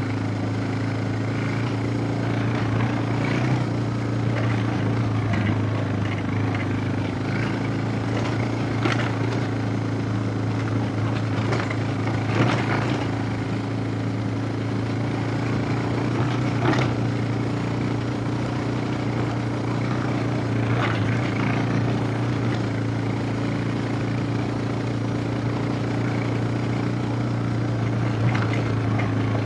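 Suzuki DR650's single-cylinder four-stroke engine running at a steady, unchanging speed, with a few sharp clicks or knocks now and then.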